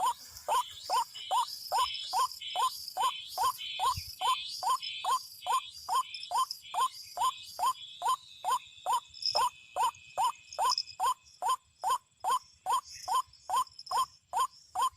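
White-breasted waterhen (ruak-ruak) calling: a monotonous run of short rising notes, about two to three a second, without a break.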